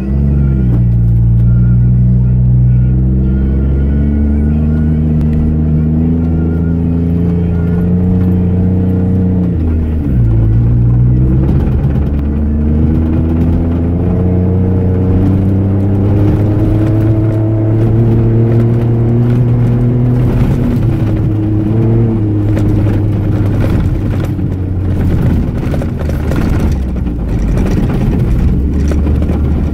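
Jeep Wrangler JK's engine under way and accelerating: its pitch climbs slowly, drops sharply about ten seconds in, then climbs again with small dips, falling and rising once more near the end. Rough, uneven noise from the vehicle over the dirt track grows in the later seconds.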